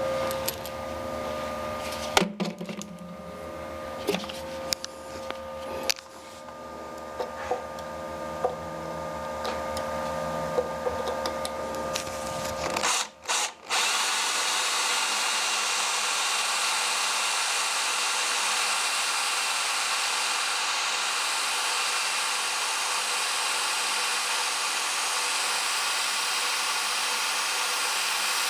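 Electric drill running steadily, with scattered clicks and scrapes over the motor's whine; about thirteen seconds in the sound breaks off and gives way to a steady, even whirring hiss.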